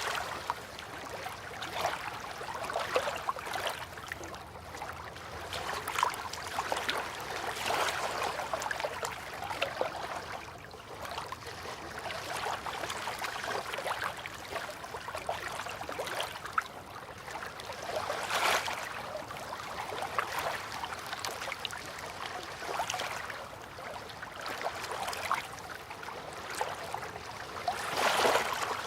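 River water lapping and trickling, swelling into louder splashes now and then, loudest near the end.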